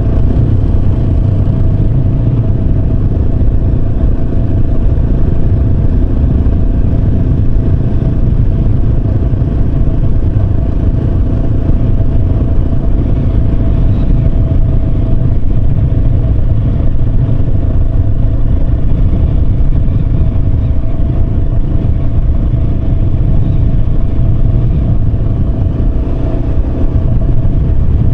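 Yamaha Serow 250's air-cooled single-cylinder engine running steadily at cruising speed, with no change in pitch, under a heavy low rumble.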